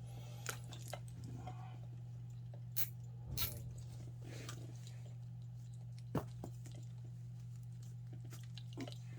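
Scattered clicks and rustling of wires and a zip tie being handled, with a few sharper clicks standing out, over a steady low hum.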